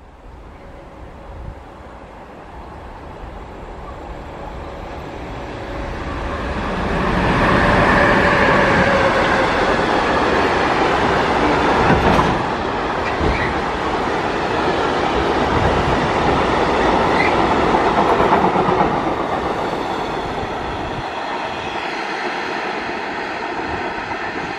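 Freight train of tank wagons approaching and running through at speed. Its noise builds over the first several seconds, stays loud while the long string of wagons goes by, then eases off as the tail passes.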